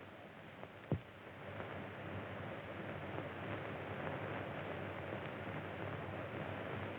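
Faint steady hiss of an old film soundtrack, with a single sharp click about a second in.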